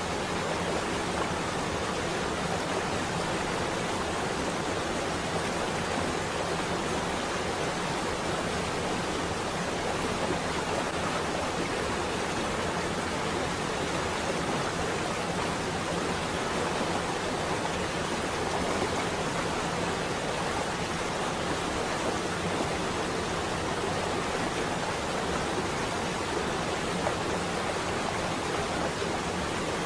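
Steady heavy rain on a window, an even, unbroken hiss with no thunder.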